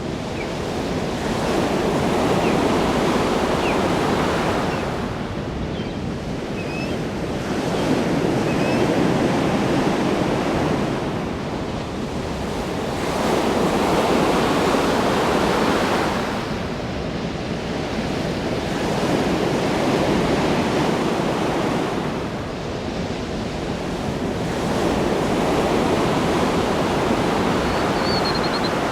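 Ocean waves breaking and washing in, the surf swelling and easing in slow surges about every six seconds.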